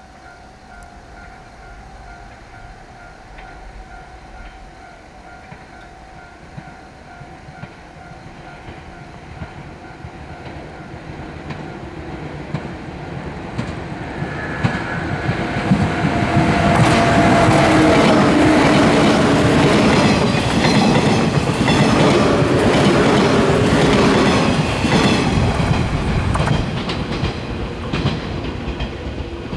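JR 115 series electric train approaching and running past. The rumble and clickety-clack of wheels over rail joints build up, peak about two-thirds of the way through, then ease off slightly. A whine slides down in pitch as it comes close.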